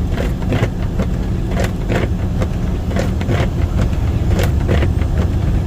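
Vehicle driving on a snow-covered highway, heard from inside the cab: a steady low road and engine rumble with irregular short clicks and ticks scattered through it.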